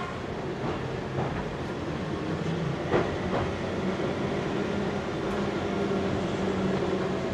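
Cabin sound of a Keihan 700 series electric train running along the street, with a steady rumble and a few clacks of the wheels over rail joints, the loudest about three seconds in. A low steady hum comes in about two and a half seconds in.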